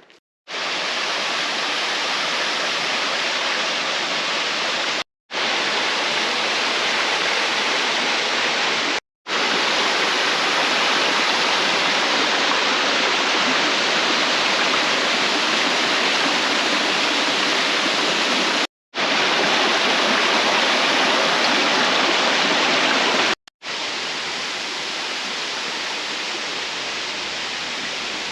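Waterfall rushing with a steady, full roar of falling water. The sound cuts out for a split second four times, and each segment runs at a slightly different level.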